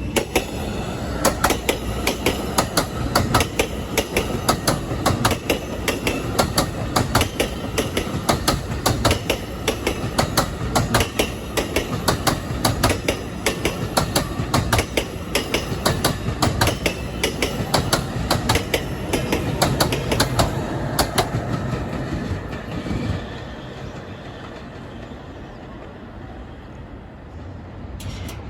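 Train passing close by, its wheels clicking rapidly over rail joints for about twenty seconds, then the sound fades as it moves away.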